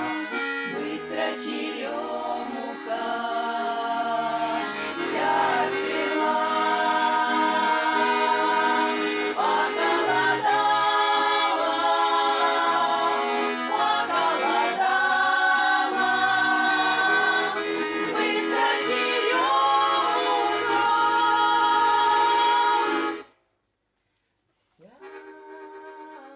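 Russian folk song played on accordion, with a women's ensemble singing together. The music cuts off abruptly near the end, and after a brief silence a quieter accordion passage begins.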